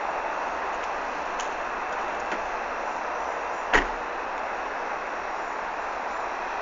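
Steady road and tyre noise of a moving car. One sharp knock just past the middle, with a fainter click a little before it.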